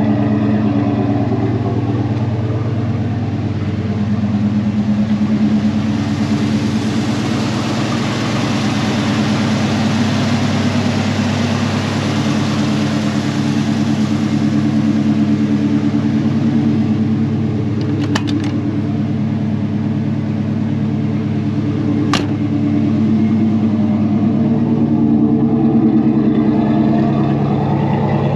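Ford 460 (7.5-litre big-block V8) in a 1984 F250 running steadily, warming up after a cold start. A rushing hiss swells through the middle and fades, and a few sharp clicks come near the end.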